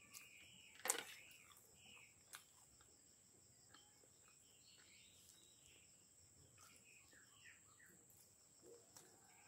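Quiet eating sounds: a few sharp mouth clicks and smacks while fried chicken is chewed, the loudest about a second in. Behind them is a steady high insect trill with scattered bird-like chirps.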